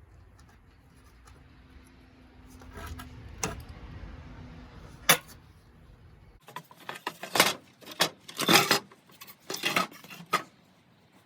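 Hard objects being handled: a couple of sharp knocks over a low hum, then, after the hum cuts off abruptly about halfway through, a quick run of clattering and clinking for about four seconds.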